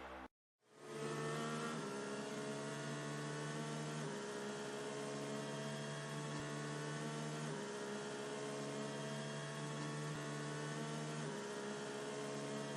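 Quiet synthesizer background music of held chords that change every few seconds.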